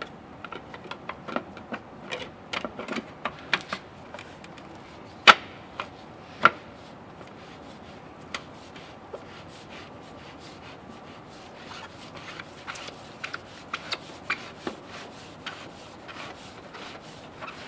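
Irregular small clicks and knocks of hands working a truck's fuel filter housing, its cap and tools, with two louder sharp knocks about five and six and a half seconds in.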